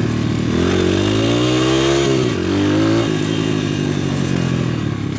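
PitPro 140cc single-cylinder four-stroke pit bike engine revving up under throttle, easing off about two and a half seconds in, giving a short second rise, then settling to a lower steady note after about three seconds.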